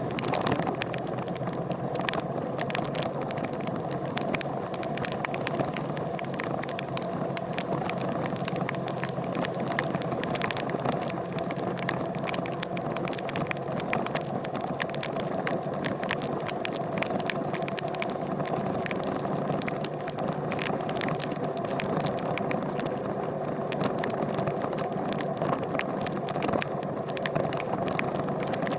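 Motorcycle engine running steadily, with rattling and many sharp clicks over it.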